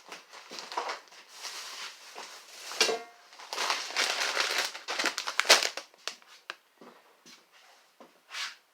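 Things being cleared off a small table: crinkling and rustling of packaging and bags with knocks of objects being picked up and set down, busy for about six seconds, then a few scattered taps.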